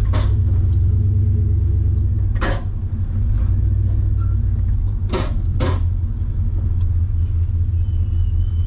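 Truck engine running with a steady low rumble. Four brief hissing sounds come through it: one at the start, one about two and a half seconds in, and two close together about five seconds in.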